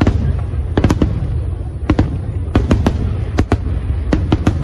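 Fireworks display: a continuous low rumble of shells bursting, with sharp cracking reports over it, about a dozen, coming closer together in the second half.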